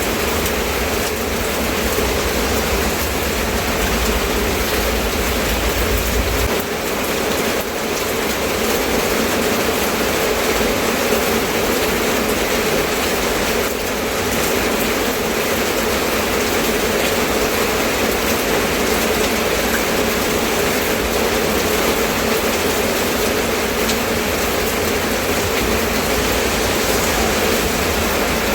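Steady rain falling, an even, unbroken hiss. A low rumble underneath drops away about six seconds in.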